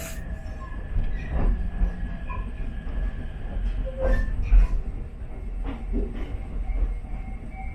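An Ichibata Electric Railway 7000 series electric train running along the line: a steady low rumble with irregular wheel clicks over rail joints and faint, thin squeals from the wheels now and then.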